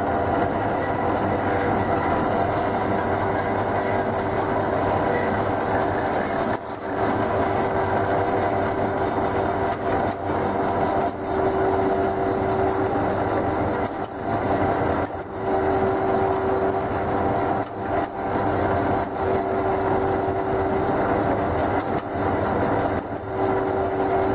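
DoALL C916SA horizontal band saw running: a steady machine noise with a held hum that comes and goes, and a few brief dips in level.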